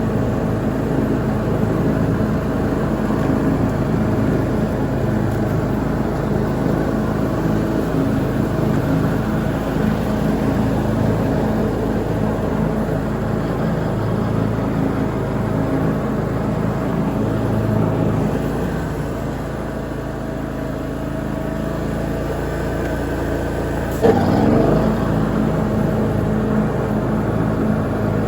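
Lawn mower engine running steadily under cutting load, dipping a little about two-thirds of the way through. A short sharp knock about 24 seconds in.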